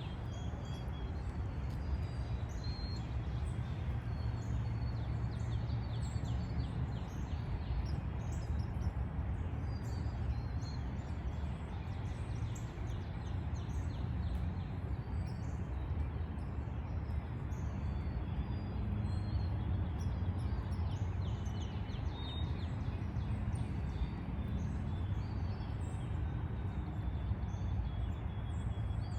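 Outdoor background noise, a steady low haze, with small birds chirping on and off throughout.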